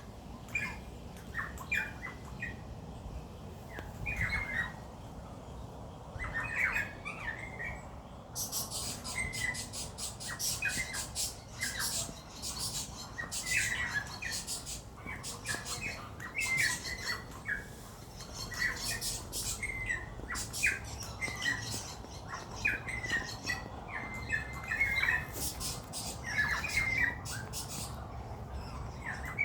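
Birds calling: short squawks and chirps repeated every second or so. From about eight seconds in, many rapid sharp clicks join the calls.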